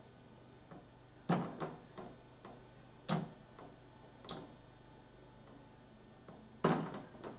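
A handful of irregular sharp taps or knocks, a few of them louder than the rest, over a faint steady low hum.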